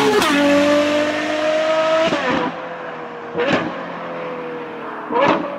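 Ferrari 812 GTS's naturally aspirated 6.5-litre V12 breathing through a Novitec sport exhaust, accelerating through the gears. A shift drops the note right at the start, the revs climb again, and a second shift comes about two seconds in. The engine then eases off with a lower, quieter, slowly falling note, broken by two short bursts about three and a half and five seconds in.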